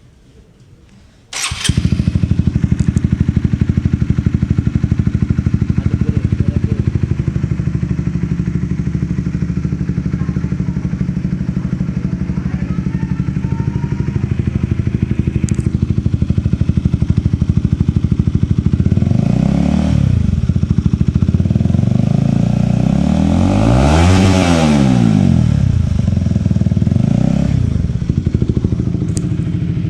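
Honda CBR150R's single-cylinder four-stroke engine starting about a second and a half in and idling steadily through an aftermarket slip-on exhaust, then revved three times in the second half, the middle rev rising highest.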